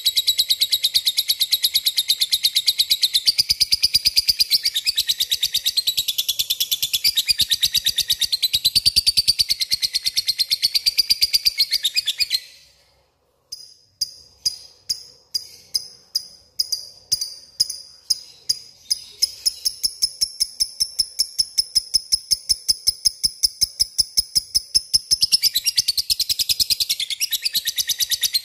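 Lovebird ngekek: a long, rapid, high-pitched chattering trill. About twelve seconds in it breaks off for a moment, restarts as separate chirps that quicken into a steady trill, and swells back into the full dense chatter near the end.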